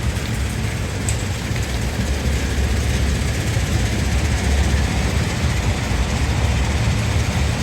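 Quarry primary jaw crusher running under load: a steady deep rumble with a continuous gritty rattle of rock being crushed, and a few faint clicks.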